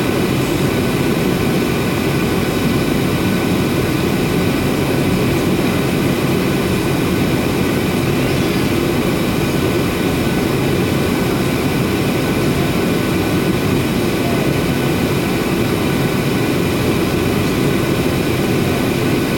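Boeing 737-800's CFM56-7B jet engines running at a steady level, a constant rush of noise with faint, steady high-pitched whining tones over it.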